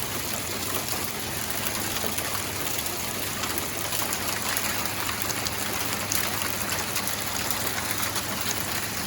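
Hail falling steadily: a dense, even patter of countless small hailstone impacts.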